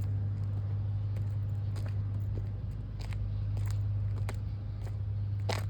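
Ford Mustang's engine idling with a steady low drone through a loud exhaust. Scattered clicks and rustles are heard over it, the loudest near the end.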